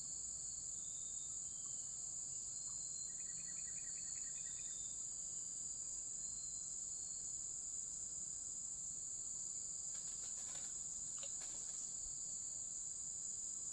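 Steady high-pitched chorus of night insects such as crickets, with a short run of quick chirps a few seconds in and some faint rustling near the end.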